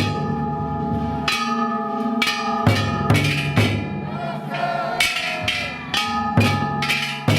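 Ishidori festival music: large taiko drum and hand-held kane gongs beaten together at about two strikes a second. The brass gongs ring on between the strikes, with a short pause about four seconds in.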